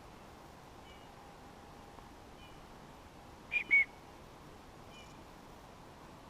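Two short, high animal calls in quick succession about three and a half seconds in, the loudest thing here, over faint high chirps that repeat every second or two.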